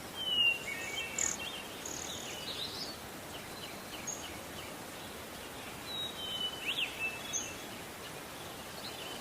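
Wild songbirds calling in short whistles, chirps and quick sweeping notes over a steady hiss of forest ambience. The calls come in two clusters: one in the first second or so, and another around six to seven seconds in.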